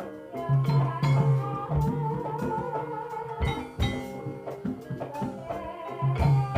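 Javanese gamelan music for an ebeg hobby-horse dance: ringing metallophone notes over repeated kendang drum strokes.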